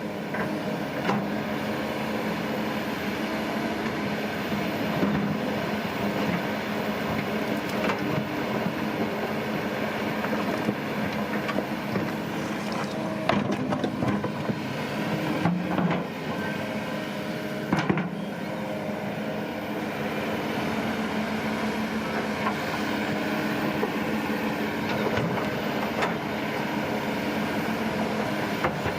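Diesel engine of a heavy earthmoving machine running steadily under work, with a few sharp knocks about halfway through.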